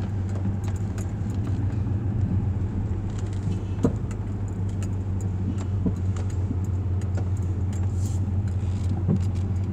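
Car cabin noise while driving: a steady low engine and road hum, with scattered small clicks and rattles, one sharper tick about four seconds in.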